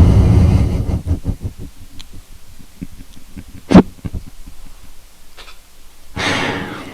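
Close-miked breathy, stifled laughter and exhales, with small wet mouth clicks in between and one sharper click a little past the middle.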